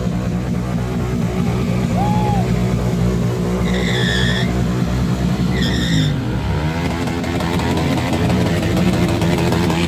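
Motorcycle engine held at high revs during a burnout, the rear tyre spinning against the ground. Two short high-pitched squeals come about four and six seconds in.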